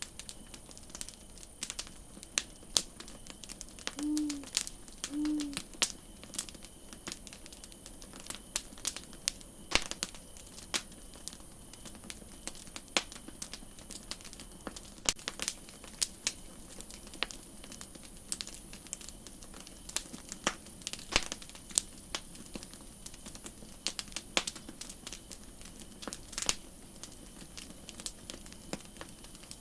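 Campfire crackling: irregular sharp snaps over a steady hiss. A little after four seconds in come two short low hoots about a second apart.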